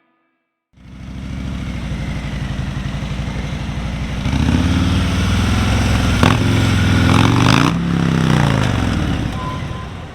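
Police motorcycle engine running, the revs coming up about four seconds in and dropping back down after about eight seconds, then fading.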